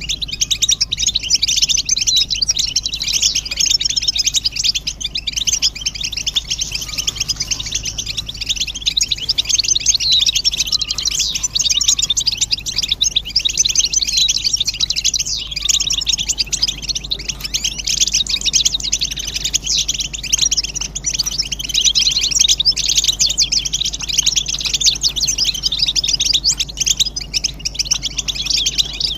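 A group of European goldfinches twittering together in a dense, continuous chatter of rapid high notes. This excited group twittering is the kind of call used to stimulate a silent male to sing.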